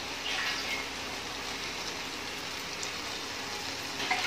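Chicken pieces sizzling in an aluminium pressure cooker, with a steady hiss. Water starts to be poured into the pan near the end.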